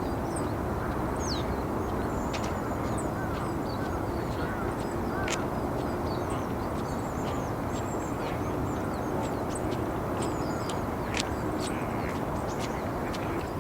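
Outdoor ambience: many short, high chirps and calls of small birds scattered over a steady low rumble of background noise.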